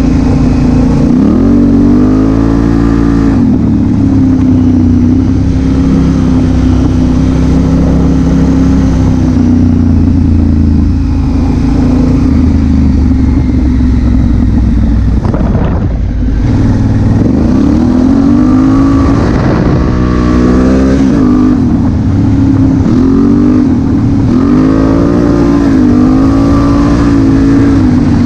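Honda Africa Twin CRF1000L's 998 cc parallel-twin engine under way, heard through the rider's helmet. The revs climb and drop repeatedly through gear changes, with a steadier stretch in the middle and a run of rises and falls in the second half.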